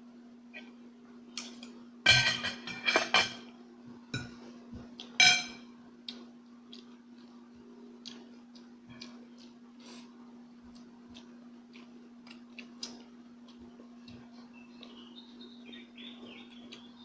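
Cutlery clinking against a plate while eating: a run of sharp ringing clinks about two seconds in and another at about five seconds, then scattered small clicks over a steady low hum. Faint chirps come in near the end.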